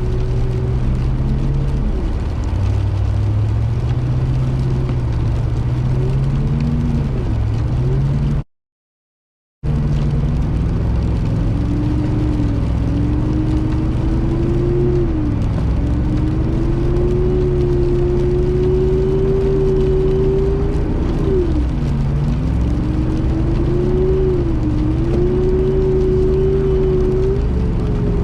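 Car engine pulling in low gear up an icy hill, its pitch slowly climbing and dipping sharply several times as the revs change. The sound cuts out completely for about a second, about eight seconds in.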